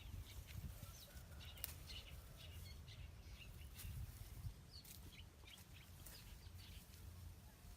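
Faint short bird chirps and scattered light clicks over a low steady rumble.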